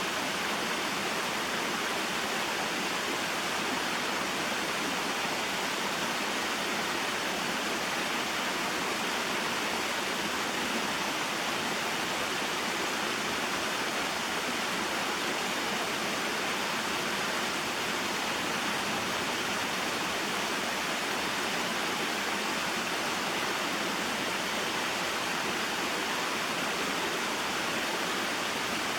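Small mountain waterfall and stream: water splashing and rushing over rocks in a steady, unbroken rush.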